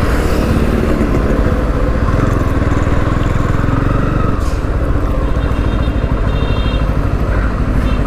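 Bajaj Pulsar F250's single-cylinder engine running at low revs as the motorcycle rolls slowly, heard from the rider's seat with a steady low pulsing.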